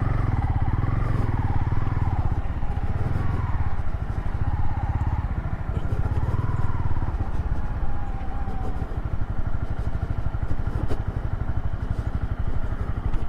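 Motorcycle engine running under load while riding through soft sand, its engine note rising and falling with the throttle.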